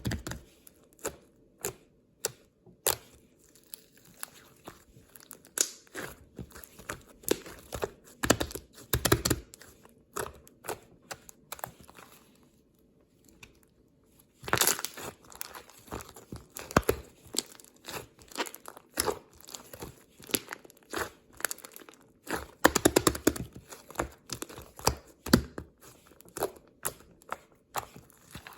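Irregular crinkling and crackling in dense bursts of sharp clicks, like something being crumpled or torn close to the microphone, with a short quiet gap about halfway through.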